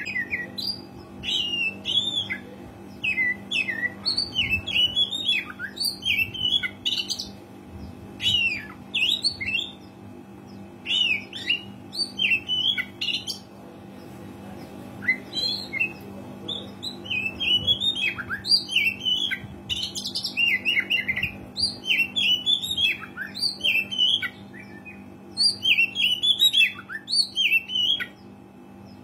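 Oriental magpie-robin singing in quick bursts of varied chirps, squawks and whistled notes, with short pauses between phrases, over a steady low hum.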